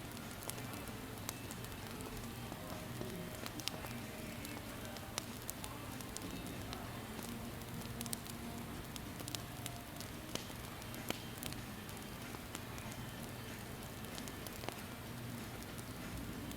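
Campfire crackling: a steady hiss with frequent irregular sharp pops and snaps of burning wood.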